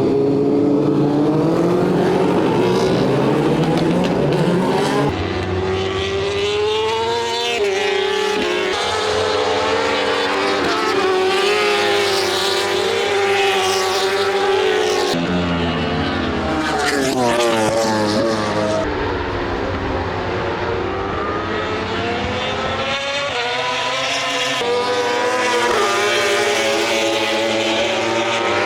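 World Superbike racing motorcycles' four-stroke engines at full throttle, pitch climbing up through the gears and dropping off as bikes pass and shift down, over several passes.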